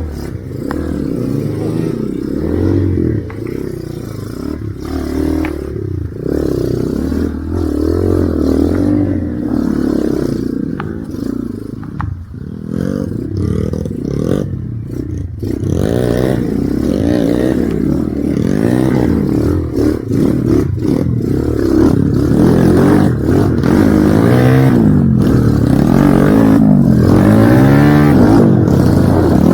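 Motorcycle engine revving up and down under load as it is ridden over a rough trail, its pitch rising and falling every second or so. It grows louder in the last several seconds.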